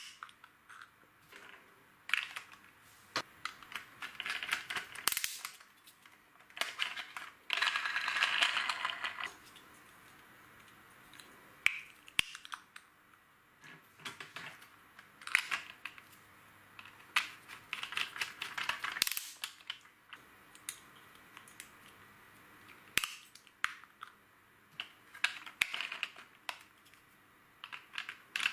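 LEGO plastic bricks clicking and rattling as pieces are handled and snapped together: scattered sharp clicks with short rattling bursts, the longest rattle about 7 to 9 seconds in.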